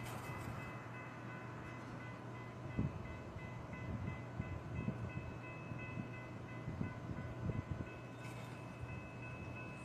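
SEPTA Regional Rail electric train running on the Fox Chase Line, with a steady high whine over a low hum and irregular low knocks from about three seconds in.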